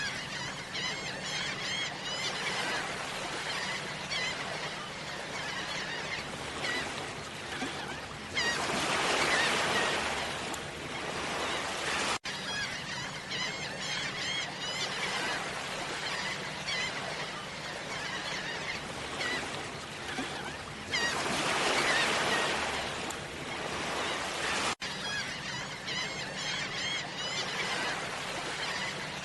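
Many small birds chirping in quick, repeated short calls over a steady rushing background noise, which swells twice into a louder rush that cuts off suddenly.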